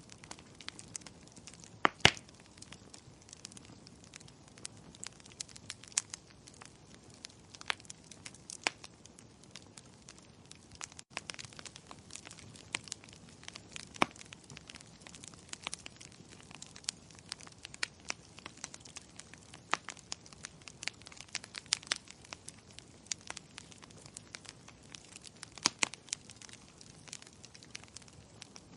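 Fire in a fireplace crackling, with irregular sharp pops and snaps over a soft steady hiss; the loudest pop comes about two seconds in.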